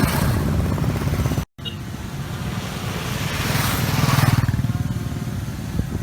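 Motorcycle engines running, with one bike growing louder and passing close about four seconds in. The sound cuts out completely for a moment about a second and a half in.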